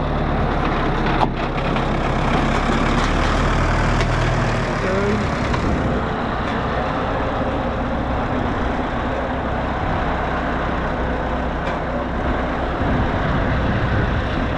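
A heavy vehicle's engine running steadily; about five seconds in its even note gives way to a rougher rumble that carries on.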